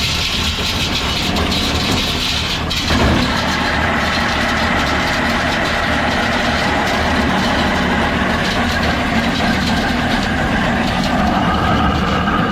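1948 Allis-Chalmers C's four-cylinder engine running steadily under belt load, driving a feed grinder. About three seconds in, the grinder's sound thickens into a steady growl as ground corn is dumped back into the hopper to be reground; the grinder has gone a long time without grease.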